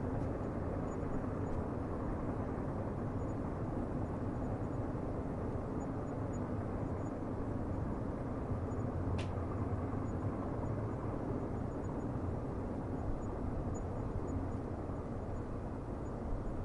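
Steady low rumble of a distant train, with one brief faint click about nine seconds in.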